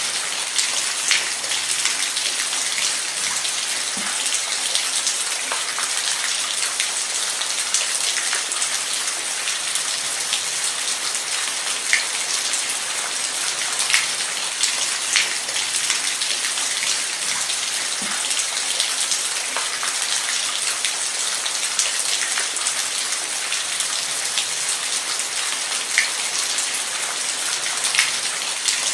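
Steady rain falling on a surface, an even hiss with scattered louder drops ticking through it.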